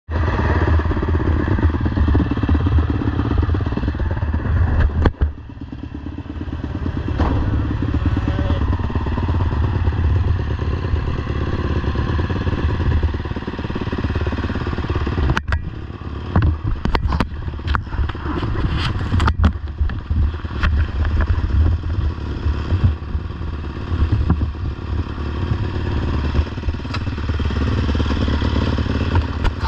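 Motocross bike engine running hard under throttle, dropping off briefly about five seconds in before pulling again. Several sharp knocks and clatter between about fifteen and twenty seconds in.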